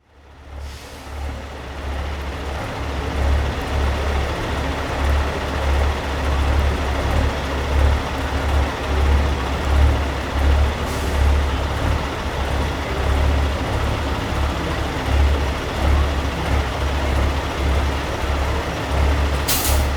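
Peterbilt semi trucks' diesel engines rumbling low and unevenly, fading in over the first two seconds. A short air-brake hiss comes just before the end, and a fainter hiss about halfway through.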